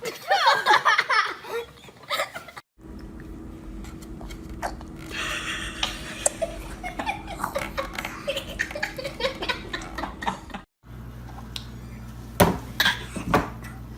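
Laughter, loudest in the first two seconds, across short home-video clips cut together.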